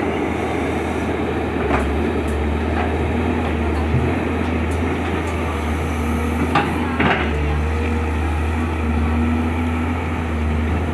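Hydraulic excavator's diesel engine running steadily, with a few sharp knocks, the loudest pair a little past the middle.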